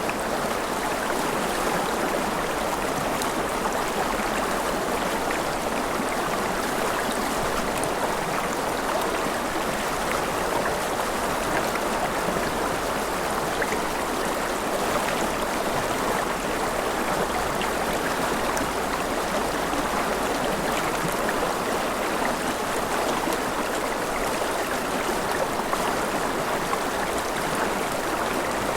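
A river flowing over stones, a steady rushing and burbling of water.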